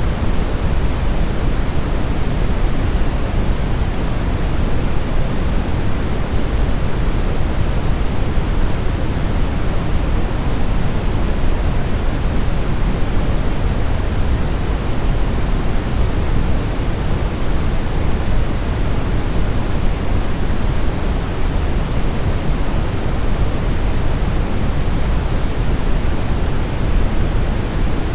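Steady synthetic brown noise: an even, deep rushing hiss weighted toward the low end, without change.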